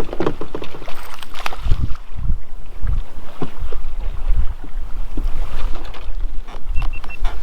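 Wind buffeting the microphone, with repeated dull knocks and thumps from a kayak on the water. Three short high beeps sound close together near the end.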